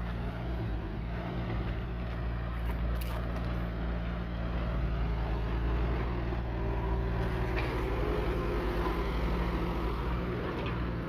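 Engine running steadily at an even speed, with a constant low hum and no change in pitch.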